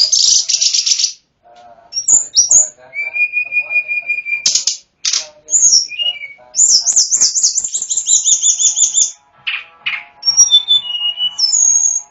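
A sulingan gunung (tledekan gunung) songbird sings a varied song packed with mimicked phrases: rapid high trills, sharp chirps and a long steady whistle a few seconds in, with short pauses between phrases.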